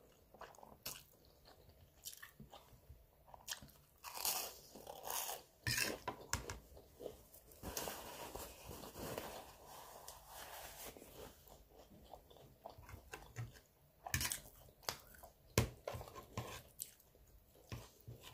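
Close-up mouth sounds of a person chewing spaghetti and garlic bread, with scattered small clicks and bites. Around the middle a paper napkin rustles as it wipes the mouth.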